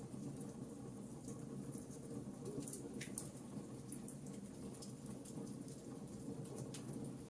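Wood fire crackling: frequent short snaps and pops, irregular and several a second, over a steady low rumble of the burning fire. The sound cuts out for an instant at the very end.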